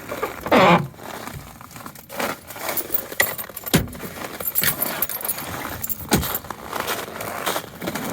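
Footsteps crunching on cold, frozen snow: a run of uneven crunches and crackles.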